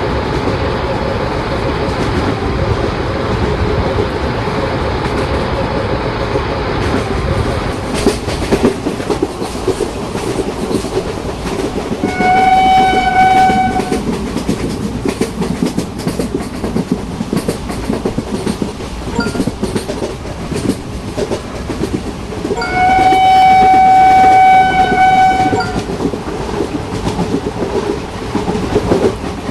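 Indian Railways electric train running past with rolling wheel clatter on the rails. Its horn sounds twice, a short blast about twelve seconds in and a longer one of about three seconds near 23 seconds.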